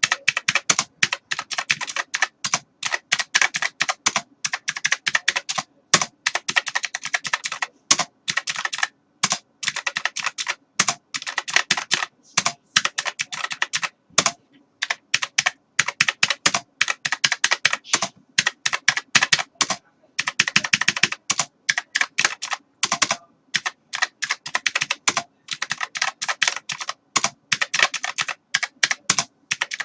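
Computer keyboard being typed on: fast runs of key clicks in bursts, broken by brief pauses every few seconds.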